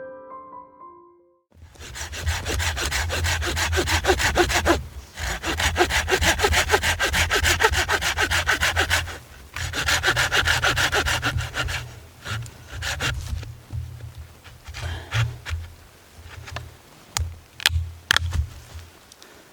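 A handsaw cutting wood in quick, regular strokes, in three runs broken by short pauses, then slower, scattered strokes near the end.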